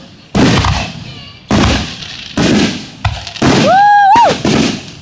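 Aerial fireworks shells bursting close overhead: about five loud, sharp bangs in quick succession, each trailing off in crackle and echo. A short, high, wavering whistle-like tone sounds about four seconds in.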